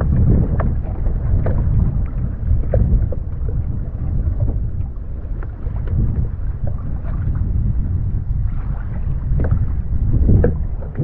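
Wind rumbling on the microphone on a kayak at sea, with scattered small splashes of water against the hull.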